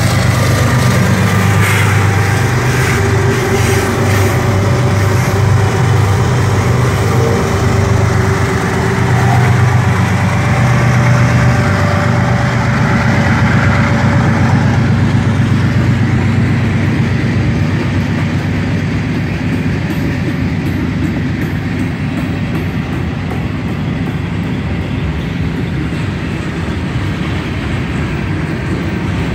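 Freight train passing close by: a mid-train diesel locomotive (distributed power unit) goes past with a steady engine drone and a whine for about the first fourteen seconds. Then covered hopper and tank cars roll by, their steel wheels rumbling on the rails.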